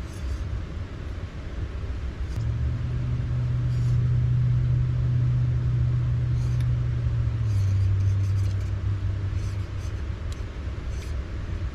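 Steady rushing rumble of a fast, high river, with a low steady hum that starts about two seconds in, drops in pitch a little past halfway and fades near the end.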